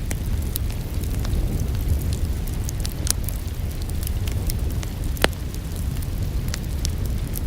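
Wood fire crackling in a fireplace: scattered sharp pops and snaps, the loudest a little past five seconds in, over a steady low rumble of the flames, with rain in the background.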